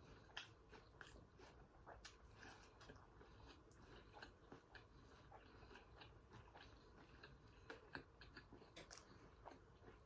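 Faint close-up chewing of crispy fried seafood: soft crunches and wet mouth clicks and smacks, irregular throughout.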